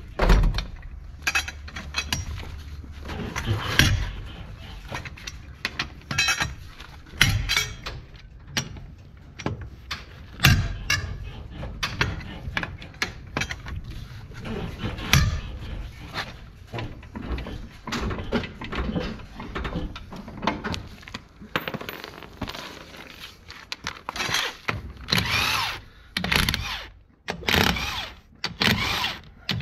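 Hand tools and metal brake parts clinking, knocking and rattling at irregular moments during a brake pad change on a van, with a denser run of clatter near the end.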